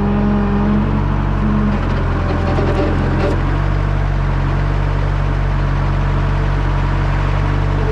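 The diesel engine of a 1967 JCB 3C Mk 2 backhoe loader running steadily, its note shifting slightly a couple of times.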